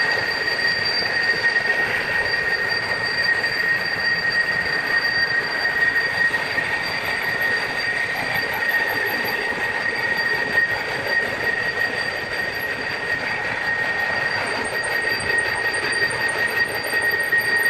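Steam jet ejector running: a steady, loud rush of steam with a constant high whistle over it.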